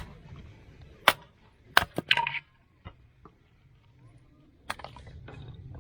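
Sharp wooden cracks and knocks, irregularly spaced: one about a second in, three close together around two seconds, and another near the end. This is the sound of firewood popping or being handled at a campfire.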